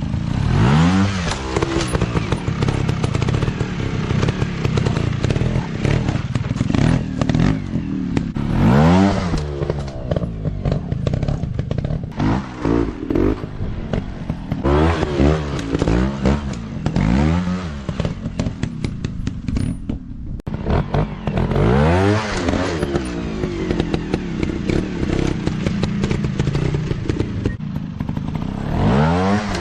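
Dirt bike engines being revved up and down over and over, the pitch climbing and falling every few seconds, with a rattly crackle running throughout.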